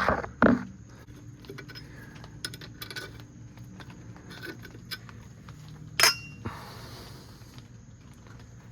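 Metal clinks and clicks from handling tools and brake caliper parts: a sharp clack about half a second in, a cluster of light ticks around the middle, and another sharp clack about six seconds in.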